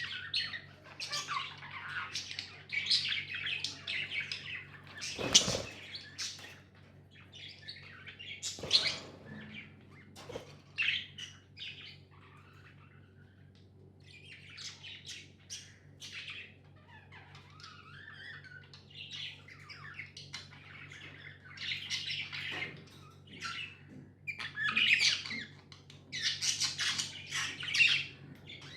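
Pet budgerigars chirping and squawking in bursts of busy chatter, with a quieter spell about halfway through. A sharp click comes about five seconds in, and a low steady hum runs underneath.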